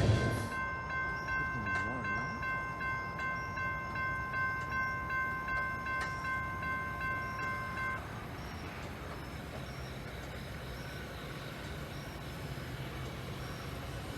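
Railroad grade-crossing bell ringing rapidly and evenly, then cutting off about eight seconds in as the crossing signal shuts off after the train clears. A low steady hum remains afterwards.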